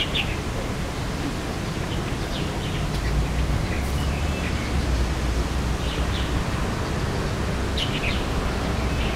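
Birds chirping briefly a few times over a steady hiss and low rumble.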